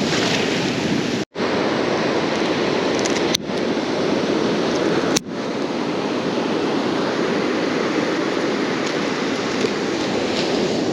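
Steady noise of surf on a beach with wind on the microphone. The sound cuts out completely for a moment about a second in and breaks briefly twice more a few seconds later.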